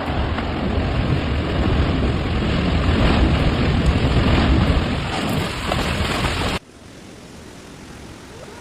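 Loud rushing water with a deep rumble. It cuts off abruptly about six and a half seconds in, and a much quieter steady hiss follows.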